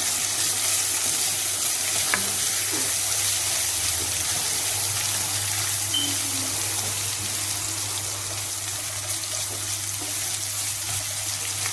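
Garlic and ginger frying in hot oil in a pan, a steady sizzle as they brown.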